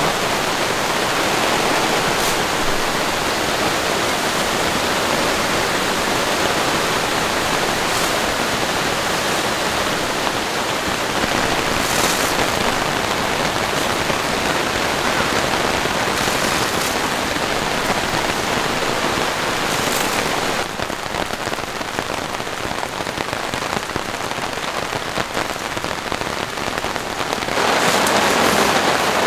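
Heavy rain falling steadily on the camp tarp and canvas tents, an even dense hiss of rain. It drops in level about two-thirds of the way through and grows louder again near the end.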